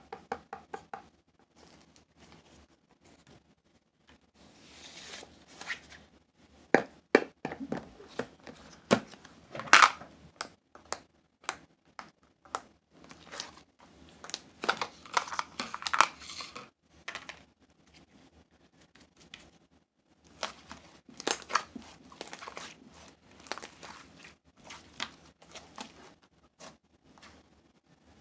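Crinkling and tearing of something being handled and crumpled, with sharp irregular clicks in uneven bursts and short quieter gaps between them.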